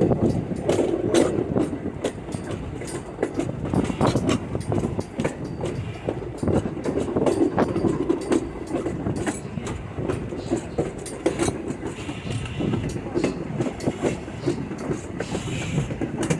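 Railroad passenger car riding along the track: a steady rumble from the wheels, broken by many sharp, irregular clicks over the rail joints.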